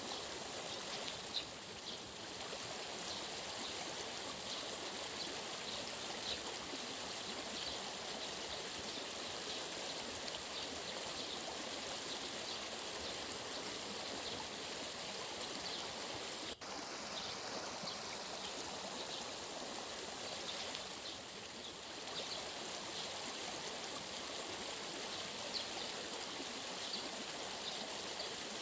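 A stream of running water flowing steadily, with a brief sudden dropout a little past halfway.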